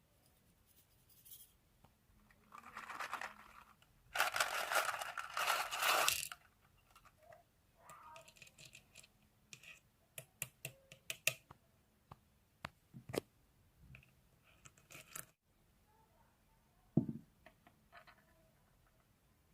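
Handling of a drink with ice: two bursts of rustling, crackling noise, the second the longer and louder, then a run of light clicks and taps and one dull thump near the end.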